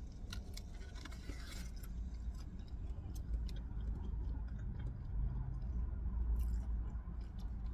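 Chewing with irregular wet mouth clicks, over a steady low rumble of outside noise coming into a car cabin through cracked windows.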